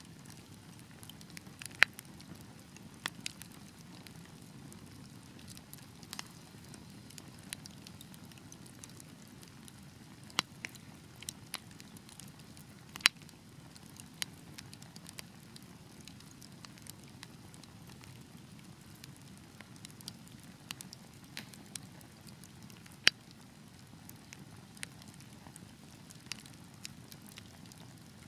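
Wood fire burning with a steady low rumble and irregular sharp crackles and pops, a few of them markedly louder.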